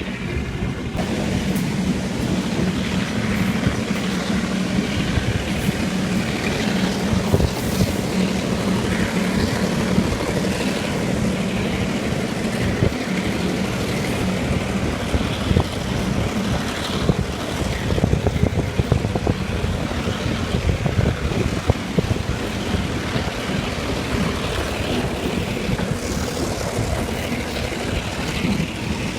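Train running under way behind an EMD two-stroke diesel locomotive: a steady engine drone with rolling and wind noise. A low hum in the drone fades about halfway through.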